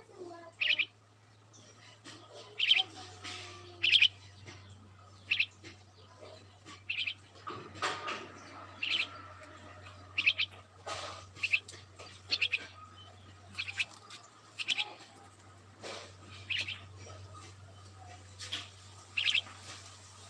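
Small birds chirping in short high calls, often two or three quick notes together, roughly one call a second, over a faint steady low hum.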